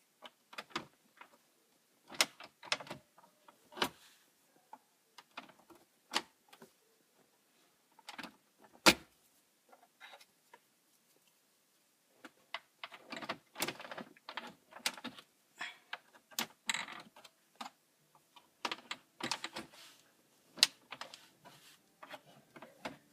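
Irregular clicks, taps and scraping of a small prying tool worked into the seam of a Toyota Tundra's plastic dash trim to pop it loose. The sounds come sparse at first, then turn into busier scraping and rattling about halfway through.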